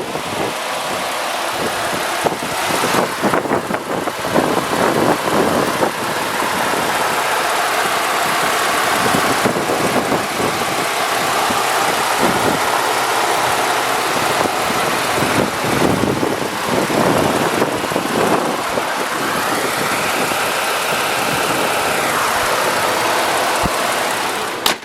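Engine of a 2012 Ford F-150 SuperCrew 4WD pickup truck running steadily, with a pitched hum that rises and falls briefly near the end.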